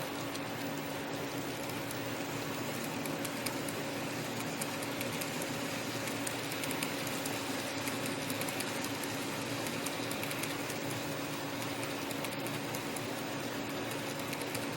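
N-scale model train running on track: a steady small-motor hum with fine ticking of the wheels over the rails.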